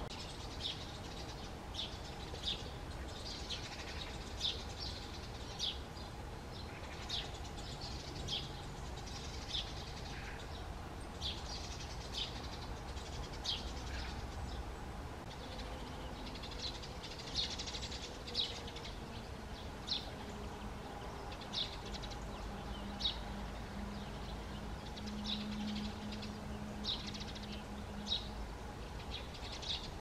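A small bird calling: short, high chirps repeated irregularly, about one every second or so, over a steady low background rumble.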